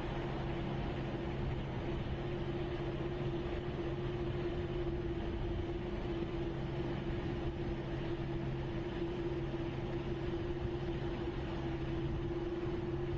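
Steady engine drone with a constant hum, holding an even pitch without rising or falling.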